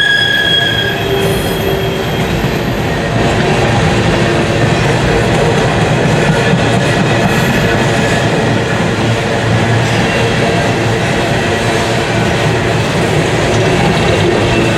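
Empty coal hopper cars rolling past, steel wheels running over the rails with a steady rumble. A high wheel squeal sounds and stops about a second in, and fainter squealing comes and goes after.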